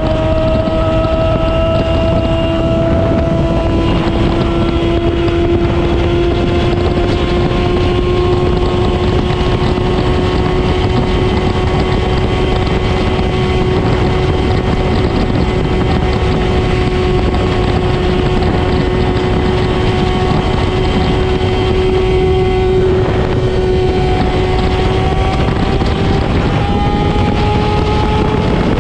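Motorcycle engine running through a replica SC-Project slip-on exhaust at a steady cruise, its pitch creeping slowly upward, with wind rushing over the microphone.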